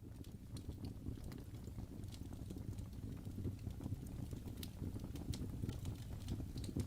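Wood fire burning in a fireplace: a low steady rumble of the flames with irregular small crackles and pops, a few each second.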